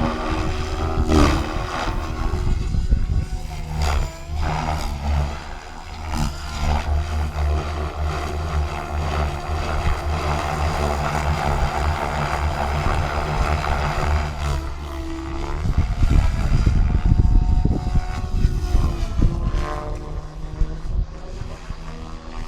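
Electric radio-controlled helicopter (SAB Goblin 630) in flight, its main rotor and motor giving a steady whine whose pitch shifts as it manoeuvres. Wind gusts buffet the microphone, hardest a little past the middle.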